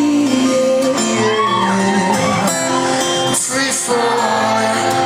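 Live song performance: acoustic guitar with a voice singing a wordless, sliding vocal line.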